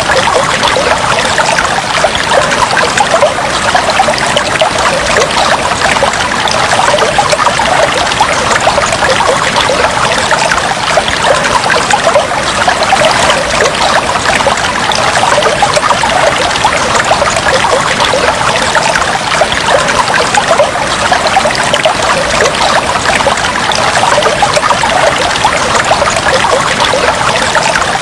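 Fish tank water trickling and splashing steadily: a dense, unbroken patter of small droplets and bubbles.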